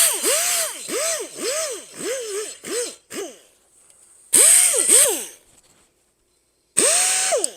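Air-powered die grinder with a Scotch-Brite pad, its high whine sagging and recovering in pitch over and over as the pad is pressed onto a lawnmower blade's edge to take off the burr. It runs for about three seconds, then in two short bursts, the last one winding down as it is released.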